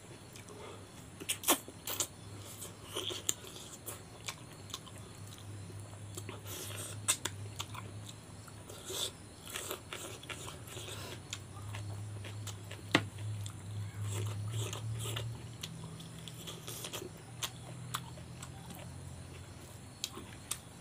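Close-miked chewing and lip smacking, with scattered sharp clicks and crunches, as a man eats rice and chicken curry by hand. A steady low hum runs underneath.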